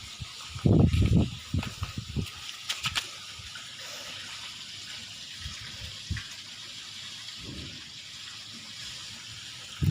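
Water rushing steadily as a koi pond's skimmer circulation runs during a fill-and-flow test. A few loud low thumps come about a second in.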